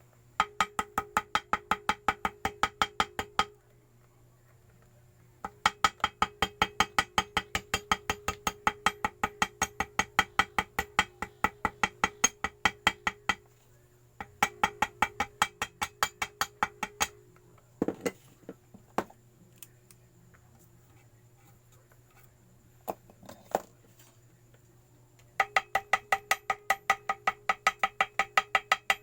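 Small hammer tapping gasket material against the engine case, the usual way of cutting a homemade gasket to shape. The taps are rapid and even, about four a second, each with a short pitched ring, and come in runs of several seconds with pauses. In a gap near the middle come a few single knocks.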